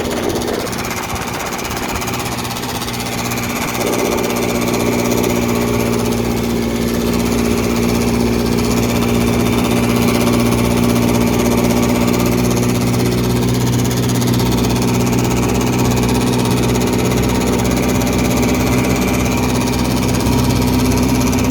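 1959 Evinrude Sportwin 10 hp two-cylinder two-stroke outboard running under way, steady, a little louder from about four seconds in, with a heck of a hood rattle riding on the engine note.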